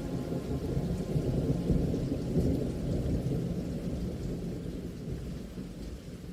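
A long rumble of thunder with rain falling. It swells about two seconds in, then slowly fades away.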